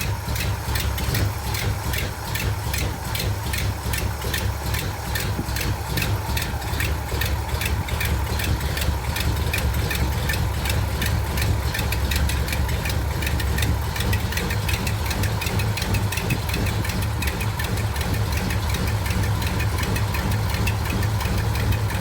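1951 Mercury flathead V8 idling steadily just after a cold start, a quick, even ticking running over its low exhaust note.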